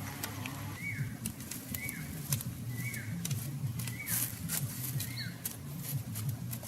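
A bird calling five times, about once a second, each call a short note that rises and then falls, over scattered sharp clicks.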